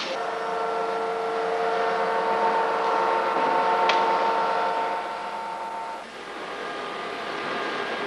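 A steady machine whine, several held tones over a noise background, that stops about six seconds in; a single sharp click sounds near the four-second mark.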